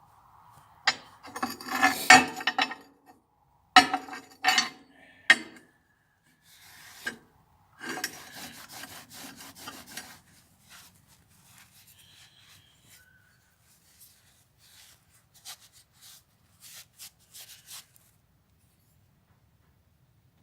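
Rough, rasping scrapes in bursts of a second or two, a few seconds apart, from hand work on a rusty steel G clamp. After them come fainter scattered ticks and light scrapes that die away near the end.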